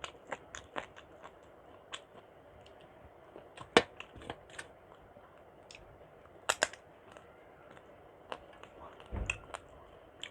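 Close-miked eating sounds: chewing of khichuri, with sparse wet mouth clicks and smacks. The sharpest click is about four seconds in, a quick pair follows a little before seven seconds, and there is a low thump near the end.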